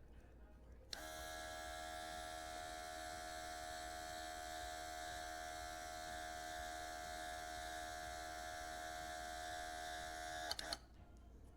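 Small cordless airbrush compressor switched on about a second in, running with a steady motor hum and air hiss, then cut off with a click or two near the end.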